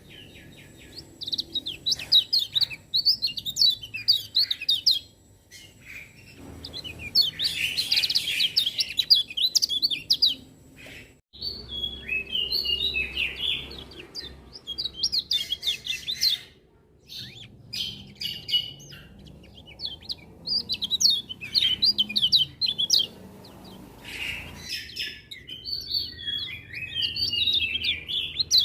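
Kecial kuning (lemon-bellied white-eye) singing: fast, high twittering phrases in bursts a few seconds long, separated by short breaks.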